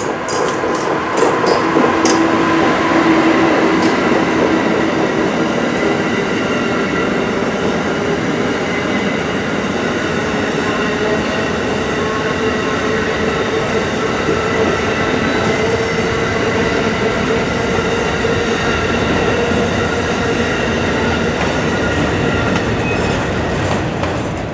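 A passenger train passing close by: a steady rumble of wheels on rail with several held squealing tones over it, and a run of sharp clicks in the first couple of seconds.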